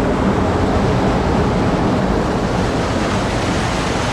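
Loud, steady rush of Thunder River's spring-fed creek flowing and cascading through its cave passage.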